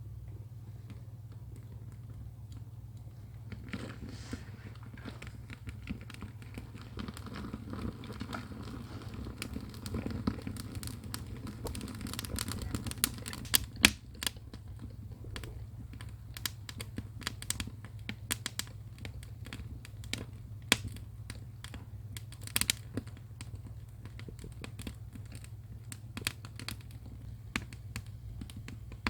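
Firewood burning in an ondol firebox, crackling with irregular sharp pops. A rush of flame swells from about four to thirteen seconds in, the loudest pop comes near fourteen seconds, and a steady low hum runs underneath.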